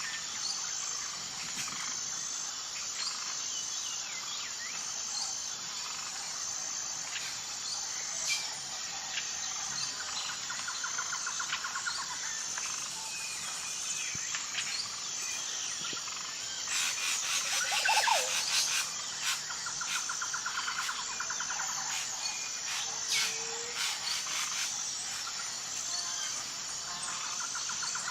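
Wild birds calling and singing over a steady high insect chirp that repeats about once a second. A rapid trill comes back a few times, and a busier burst of calls about two-thirds of the way through is the loudest part.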